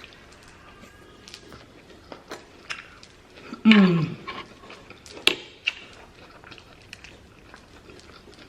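Close-miked eating: a fork clicking against the plate and wet chewing of pasta and salad. About three and a half seconds in, a short voiced sound falling in pitch.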